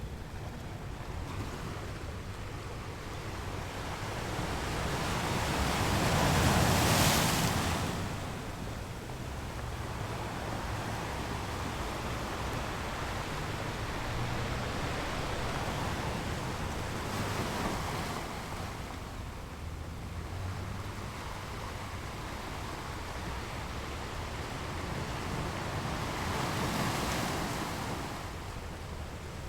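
Ocean waves rolling in and breaking on the shore, a steady wash of surf that swells as each wave breaks. The largest break comes about seven seconds in, with softer ones later.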